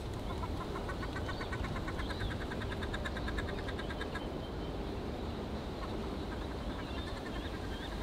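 Birds calling: a fast, even run of short rattling notes lasting a few seconds, with a few thin high chirps over it and a steady low background rumble.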